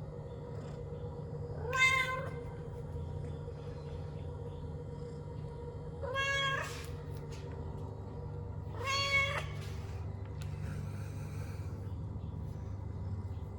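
Domestic cat meowing three times, a few seconds apart; each meow is a short pitched call, the first and last the loudest.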